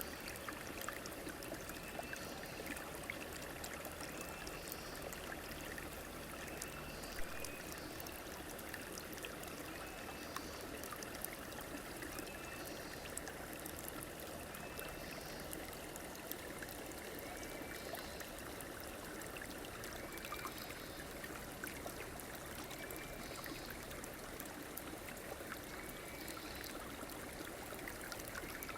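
River water flowing steadily, with a short high call repeating about every two seconds.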